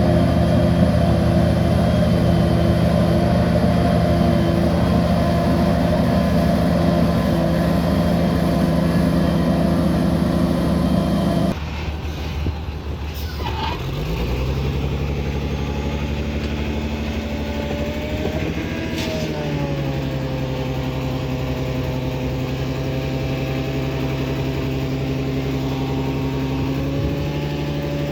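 Heavy diesel engine of a bulldozer running steadily at working speed. About twelve seconds in the sound changes abruptly to another engine running; near the middle of that part its pitch rises briefly and falls back, as with a short burst of throttle.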